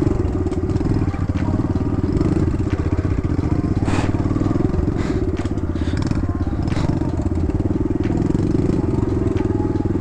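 Kawasaki KLX110 dirt bike's small single-cylinder four-stroke engine running at a steady, low, trail-riding throttle. A few sharp knocks and crunches come through from about four to seven seconds in.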